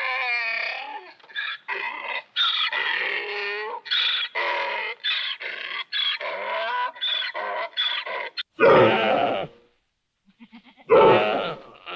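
Donkey braying in a long run of short, rapid calls that rise and fall in pitch. Near the end come two loud, rough calls from deer.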